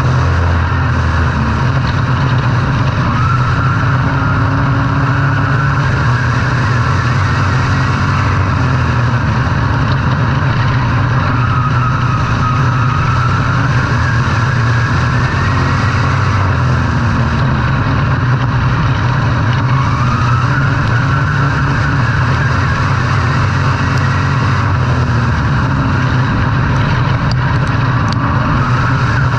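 Racing engine running hard without a break, a steady drone whose pitch rises and falls every few seconds.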